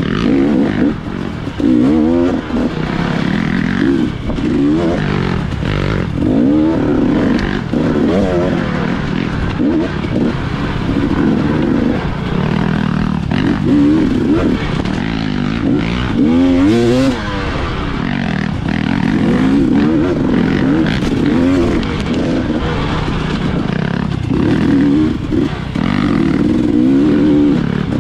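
Dirt bike engine revving up and dropping back again and again under the rider's throttle, its pitch rising and falling every second or two.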